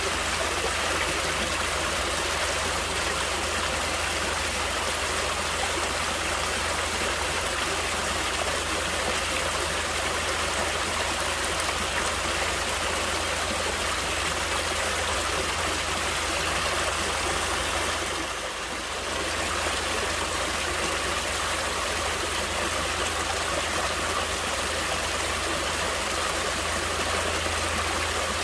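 Water flowing in a stream, a steady rushing and trickling, briefly softer about two-thirds of the way through.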